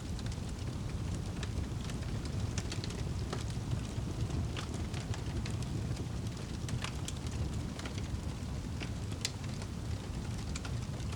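Wood fire in a fireplace crackling: a steady low rumble of burning, with frequent irregular sharp crackles and pops.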